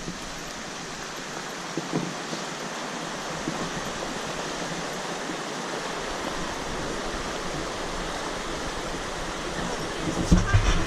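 A steady rushing noise that grows slightly louder, with low buffets of wind on the microphone near the end.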